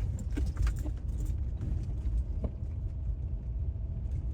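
Car driving over a bumpy gravel road: a low road rumble with scattered small knocks and rattles.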